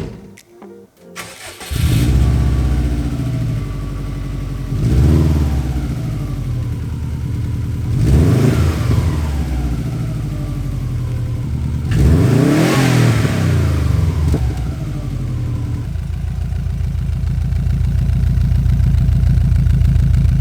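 A 2002 Subaru WRX's turbocharged 2.0-litre flat-four engine, fitted with a Borla Hush catback exhaust, starts up about two seconds in. It is revved three times, each rev rising and falling back, then settles into a steady idle.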